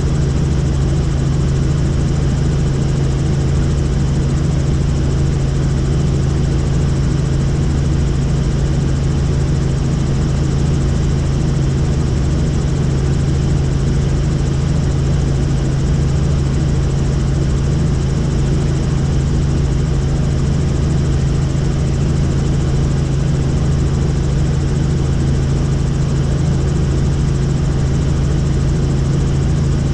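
Helicopter engine and rotor running steadily: a loud, even drone with a strong low hum and no change in pitch.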